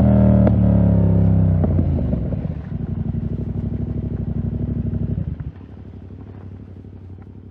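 2020 Yamaha MT-07's parallel-twin engine through a full SC-Project 2-1 exhaust, revs falling off and settling into a lumpy, pulsing idle. The sound drops away sharply about five and a half seconds in, leaving only a faint low hum.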